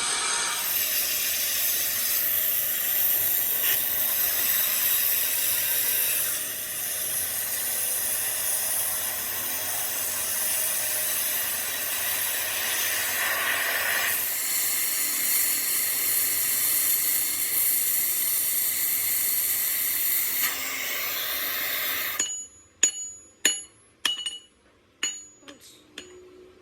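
A steady, loud hiss from metal being worked that cuts off suddenly about 22 seconds in. It is followed by about seven sharp, ringing clinks of metal being struck.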